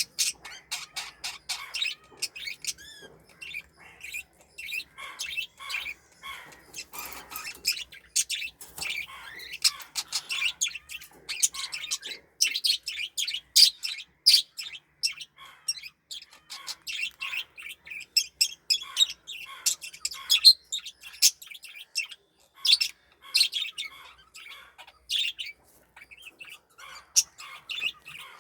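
Lutino pearl cockatiel chirping, a long, busy run of short high chirps and calls with a few louder ones among them.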